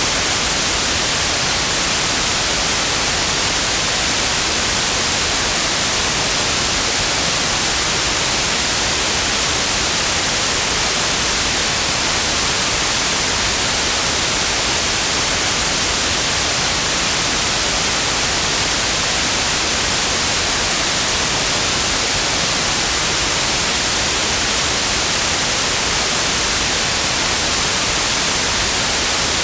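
Steady white noise: an even, unbroken hiss across all pitches, with the treble strongest.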